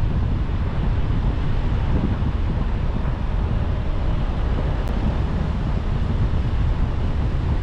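A car on the move: steady road and wind noise, heaviest in the low rumble, with no engine note standing out.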